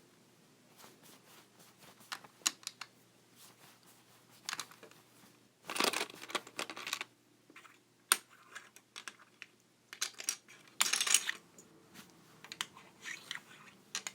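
Plastic Lego bricks clicking and clattering: scattered sharp clicks, with two longer rattling stretches about six and eleven seconds in.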